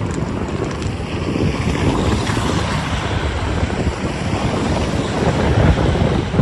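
Wind buffeting the microphone: a steady, dense rumbling noise, a little louder in the second half.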